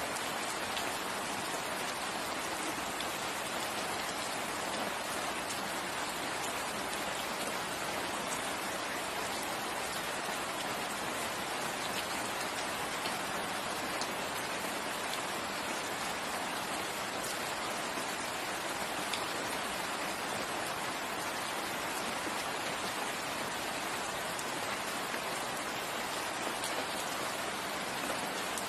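Steady rain falling, a continuous even hiss with faint patters of individual drops.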